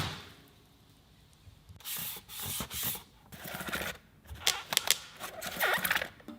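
Packaging being handled during an unboxing: irregular rubbing, scraping and rustling, starting about a second and a half in and coming in uneven bursts.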